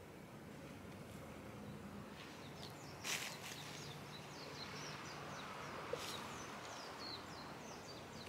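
Bird chirping a rapid run of short, high notes over quiet outdoor ambience with a faint low hum. A short burst of noise comes about three seconds in, and a sharp click just before six seconds.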